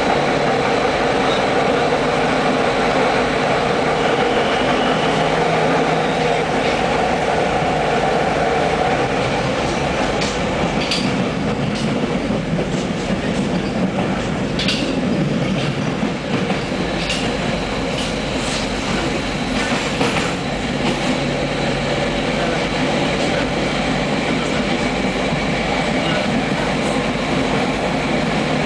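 Passenger train running along the track, heard from inside the carriage: a steady rumble of wheels on rail, with a scattering of sharp clicks in the middle stretch.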